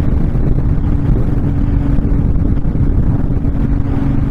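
Honda VTX1300 V-twin cruiser running steadily at road speed with a steady engine hum, under the rush of wind over the microphone.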